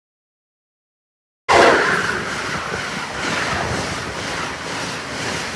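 Total silence for about the first second and a half, then a passenger train passing close at speed: a sudden loud rush of wind and wheel noise that slowly eases, with a faint repeating clatter of wheels over the rails.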